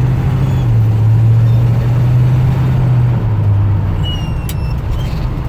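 1974 Chevrolet K10 pickup's engine running steadily while driving, heard from inside the cab; about three seconds in its note drops a little and eases off as the truck slows.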